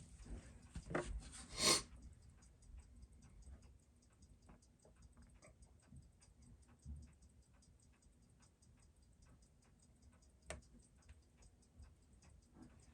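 Seiko 6139 automatic chronograph movement ticking with a fast, even beat while it is timed on a timegrapher, its running judged good. A short clatter of handling comes in the first two seconds, and a single sharper click about ten and a half seconds in.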